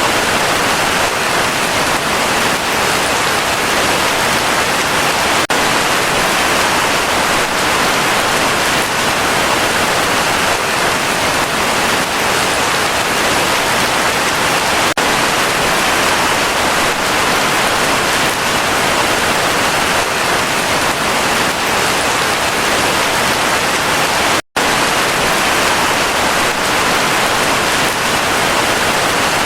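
Heavy rain falling in a steady, dense hiss. It cuts to silence for a split second near the end, then goes on as before.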